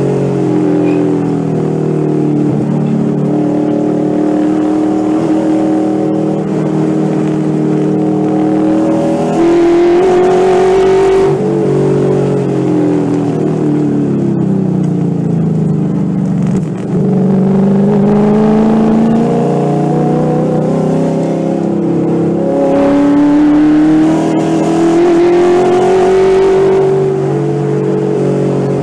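Ford 5.0L Coyote V8 in an SN95 Mustang race car being driven hard on a track. The engine pitch climbs under full throttle and falls when the driver lifts for corners, with a deep low point about halfway through before it climbs again.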